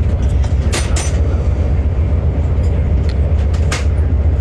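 Steady low rumble of a moving passenger train heard from inside the carriage, with a few short sharp clicks and rattles.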